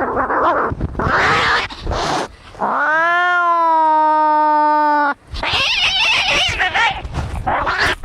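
Domestic cats fighting: harsh hissing and spitting, then one long rising-then-held yowl lasting over two seconds, then more hissing and yowling.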